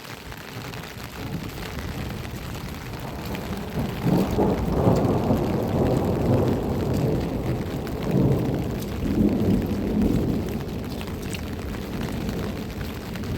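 Steady rain with a long roll of thunder that builds from the start and is loudest in several swelling waves from about four seconds in.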